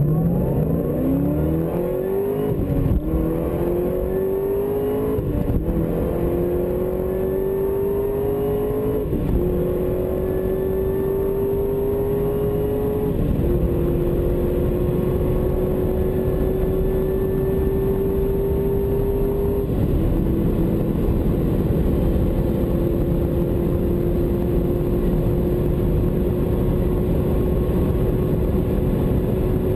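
Chevrolet Corvette ZR1's supercharged V8 at full-throttle acceleration, heard from inside the cabin. The engine note climbs through the gears with five upshifts, each a short drop in pitch. In the last two gears the note rises only slowly as the car nears top speed.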